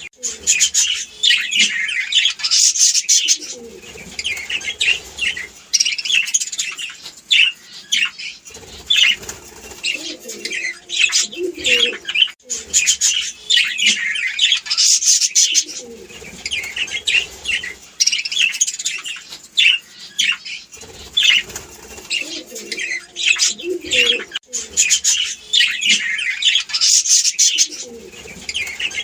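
A flock of budgerigars chattering, with dense, rapid chirps and warbles mixed with some lower calls.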